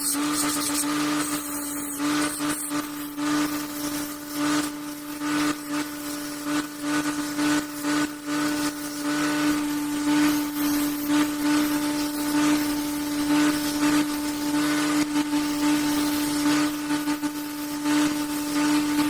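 Electric power tool running at a constant speed, with a steady hum and uneven, scratchy noise on top that rises and falls.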